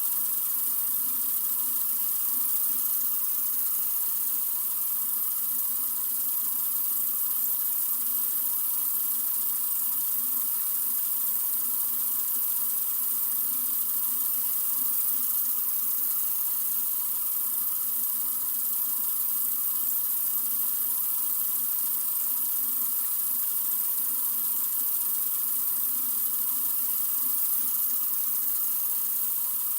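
Water running steadily from a sink faucet: an even, unchanging hiss.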